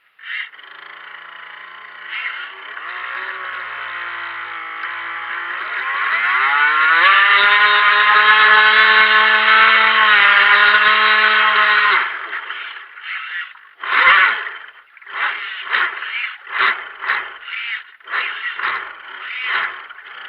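Brushed electric motor of an RC monohull boat whining. Its pitch rises around six to seven seconds in and holds steady at full throttle until about twelve seconds, when it cuts off. After that the throttle is blipped in a string of short bursts.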